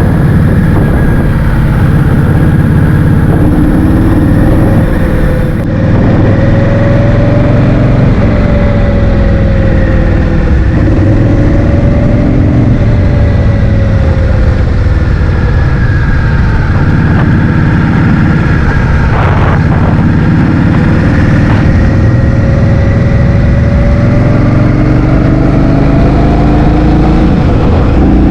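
Heavy wind buffeting on the microphone while riding a scooter, with the motor's pitch slowly rising and falling as the speed changes.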